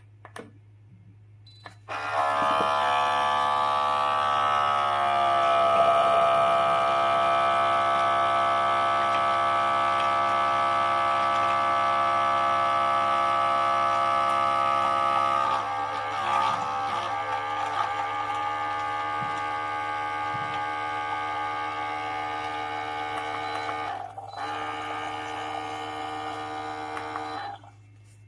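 Electric portable espresso maker's pump running with a steady hum. It starts about two seconds in, its pitch settles after a few seconds, and the tone shifts about halfway through. It breaks off briefly near the end, then runs on before stopping.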